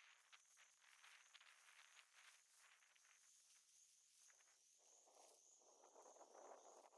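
Near silence: faint outdoor ambience with a thin, steady high-pitched insect drone and soft rustling, the rustling a little louder about five seconds in.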